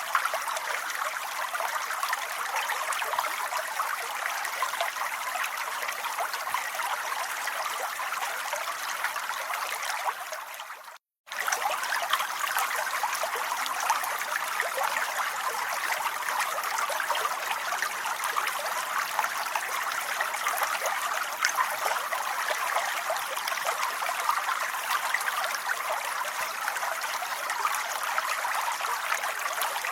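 Steady rain falling, an even wash of water noise. About eleven seconds in it fades away to silence for about half a second, then cuts straight back in, the join of a looped recording.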